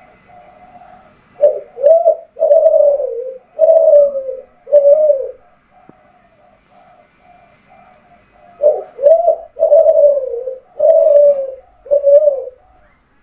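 Kelantan spotted dove (derkuku) singing: two loud cooing phrases of about five low, slightly falling notes each, one about a second in and one about two-thirds of the way through. A fainter steady cooing runs between the phrases.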